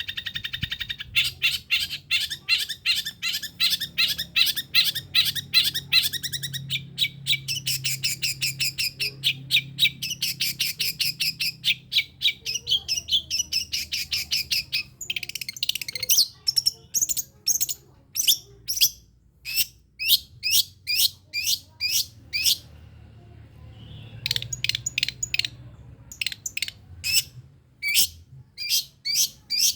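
Long-tailed shrike (pentet) singing its rapid-fire 'tembakan' song: long trains of sharp, high, repeated notes, several a second, breaking off for about two seconds near two-thirds through and then resuming.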